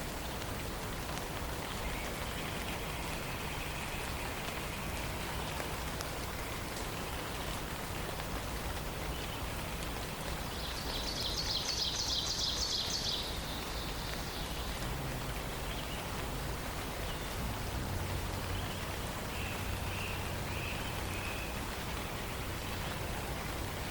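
Morning forest ambience: a steady background hiss, with a songbird's rapid high trill lasting about two seconds about eleven seconds in, and fainter bird notes before and after it.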